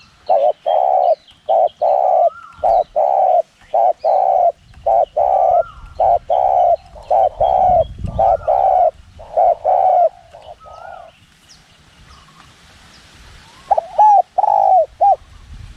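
Spotted dove cooing: a long run of low, repeated coos that stops about eleven seconds in, then a short burst of a few more coos near the end. Smaller birds chirp faintly in the background, and low wind rumble comes and goes.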